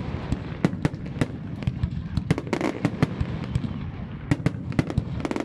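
Fireworks display: a rapid, irregular volley of shell bursts and crackles, several bangs a second, over a continuous rumble of further explosions.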